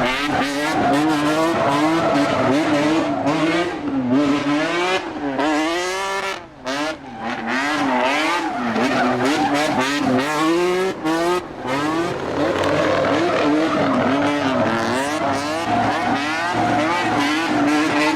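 Engine revving up and down over and over in rising and falling waves, with tyre squeal from a burnout. The sound briefly drops away about six and a half seconds in.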